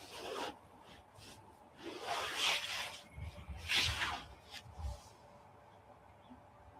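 Rubbing and rustling noises in three short bursts, with a few small clicks and some low rumbling, then quiet.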